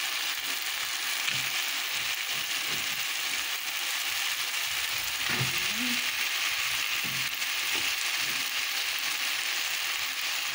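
Tomato and onion base frying in hot oil in a pot, sizzling steadily as raw chicken pieces are laid in.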